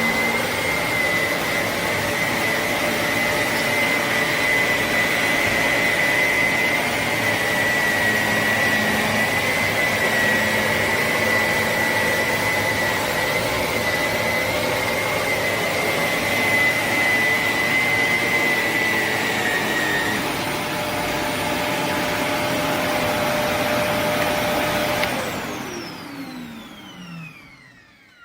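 Shark NV352 Navigator Lift-Away upright vacuum running with a steady high whine. About 25 seconds in it is switched off, and the motor winds down with a falling pitch.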